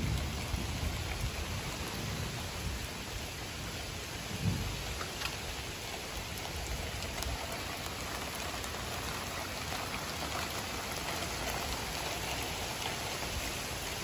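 Heavy rain pouring steadily on pavement and lawn in a thunderstorm, with a brief low rumble about four and a half seconds in.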